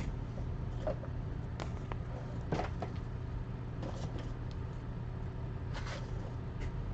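Card boxes and packs being handled: a few short, soft rustles and clicks, spaced a second or so apart, over a steady low electrical hum.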